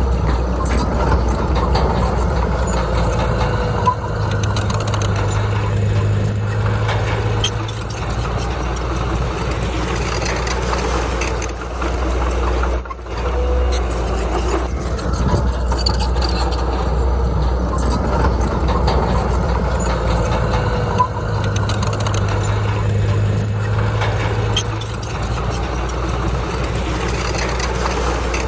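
Heavy diesel engine of earthmoving machinery working without a break, a steady low drone with small rises and falls in pitch.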